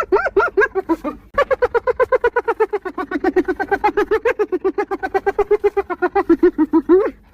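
Spotted hyena giggling: a fast run of short, pitched laugh notes, about eight a second. It pauses briefly about a second in and ends on a rising note.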